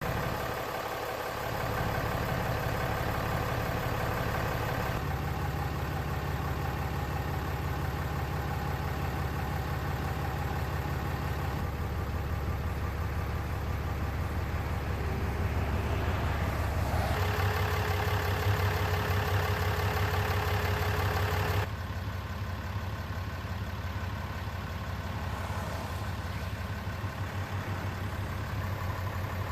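Ram 2500 pickup's engine idling steadily, its tone changing a few times along the way.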